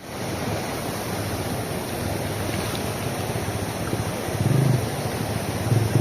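Rushing water of a river, a steady wash of noise. From about four and a half seconds in, a motorcycle engine comes in low and grows louder.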